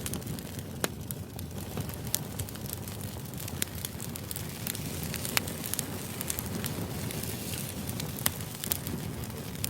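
Crackling fire ambience: a steady low rumble with irregular sharp pops and snaps.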